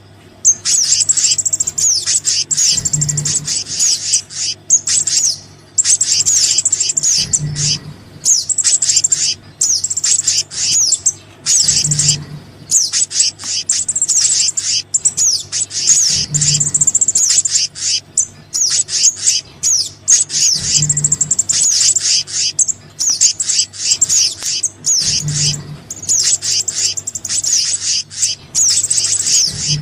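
Small-bird lure calls, a mix of sogon and kehicap (black-naped monarch) calls: dense, high, rapid chirping and trilling that runs on with only brief breaks. A short low pulse repeats about every four and a half seconds.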